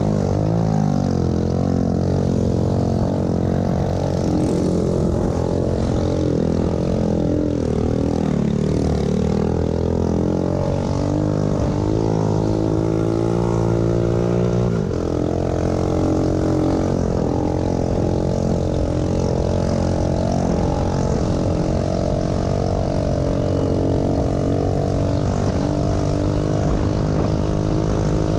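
Small single-cylinder pit bike engine running hard in a motocross race, its pitch rising and falling with the throttle. Near the middle it climbs, then drops sharply.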